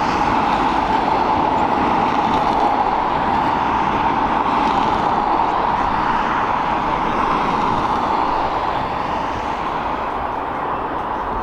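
Jet airliner engines running with a steady rushing noise that eases off slightly toward the end.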